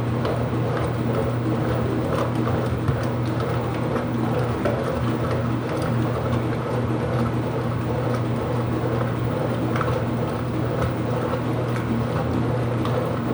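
Water running steadily into the tub of an Ipso top-loading washing machine as it fills, over a steady low hum.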